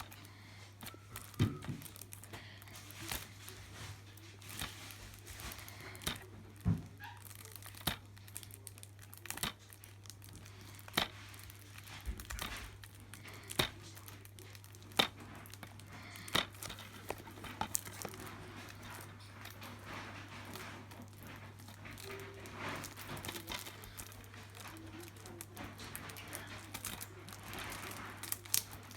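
Plastic shrink-wrap on a DVD case being torn and crumpled off: crinkling with many scattered sharp crackles and clicks, over a steady low hum.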